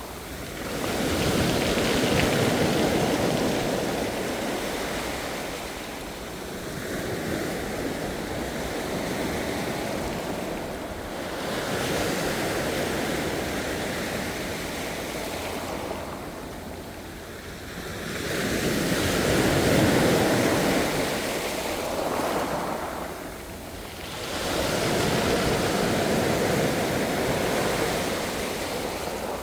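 Ocean waves breaking and washing up the shore, the surf swelling and fading about every five to six seconds.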